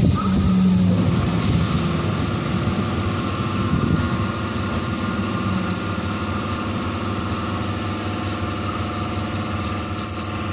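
MEMU electric multiple-unit train running slowly, heard from on board: a steady hum of several held tones from the running gear. Thin high wheel squeals come in briefly about five seconds in and again near the end.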